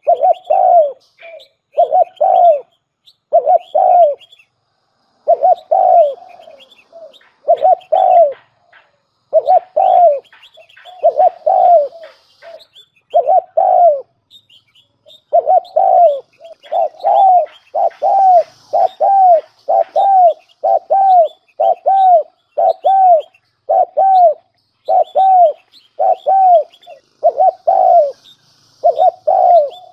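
Spotted dove cooing over and over, short deep coo notes about once a second with a couple of brief pauses: the male's advertising call, played as a decoy to draw in wild doves. Fainter high chirps sound between the coos.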